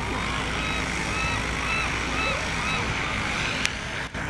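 Steady low engine hum, with a series of short rising-and-falling chirps repeating about twice a second over it, and one sharp click near the end.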